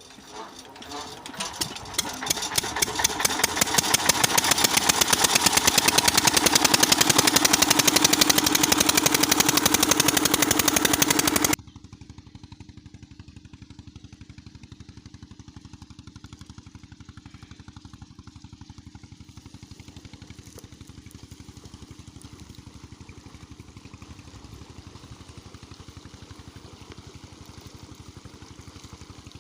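8 hp Rajkot single-cylinder diesel pump engine picking up speed over the first few seconds, then running steadily with a rapid, even firing beat. About eleven seconds in the sound drops suddenly to a much quieter, steady chugging of the same kind.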